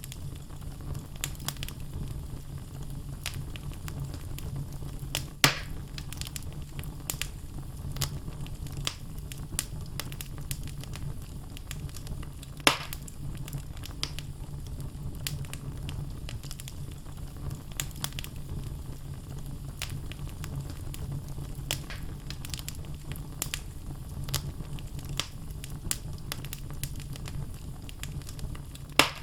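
Wood logs burning in a fireplace, crackling steadily with many small snaps over a low steady rumble of the fire. A few louder pops stand out, about five seconds in, near the middle and at the very end.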